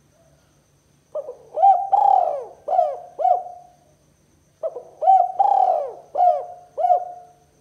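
Spotted dove (tekukur) cooing: two phrases of about five notes each, the notes bending up and down, with a short pause between the phrases. This is the 'kuk 2' call played as a lure for rival doves.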